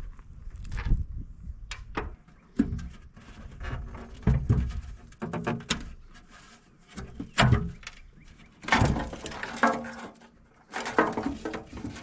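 Irregular clicks, knocks and rattles of hand-handled parts as a tractor instrument cluster is being taken apart, with busier clattering stretches near the end.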